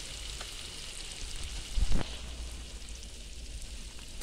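Onions, meat and sheep's tail fat frying in hot oil in a kazan: a steady sizzle, with a single knock about halfway through.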